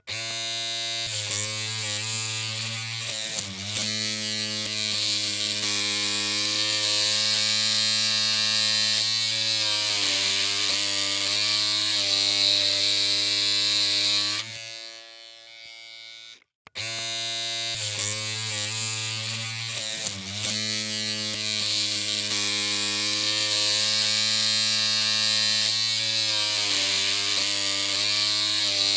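Electric hair clippers humming with a steady buzz and a bright hiss. About halfway through the buzz drops away and stops for about two seconds, then starts again.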